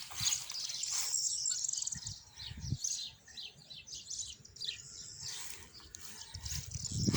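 Small birds chirping: a dense run of short, high, quick calls.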